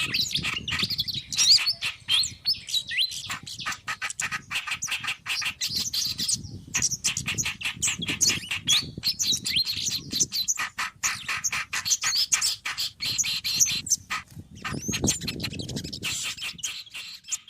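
Bird-lure recording of several small songbirds calling busily all together: a dense, agitated stream of fast chirps, whistles and harsh chattering notes. It is a mixed lure track of reed warbler, pied fantail and other birds, used to draw wild birds in.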